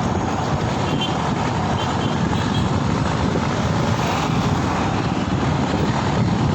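Steady wind rush over the microphone with road and traffic noise, recorded while riding.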